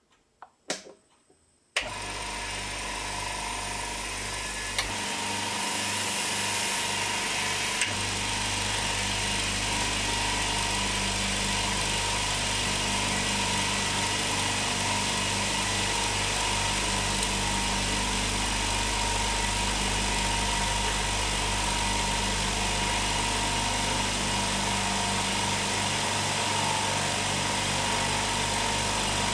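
Two switch clicks, then the HBM 6 PK 150-litre Low Noise compressor starting and running steadily as it fills an empty tank. Its control box brings the motors in one after another, so the running sound steps up about five and eight seconds in.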